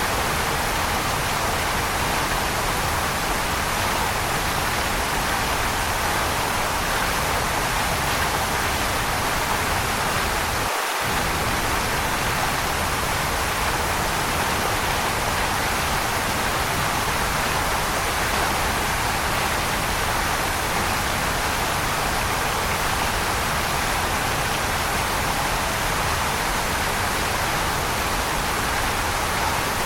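Waterfall rushing in a steady, even roar of water noise, with a brief drop in the low rumble about eleven seconds in.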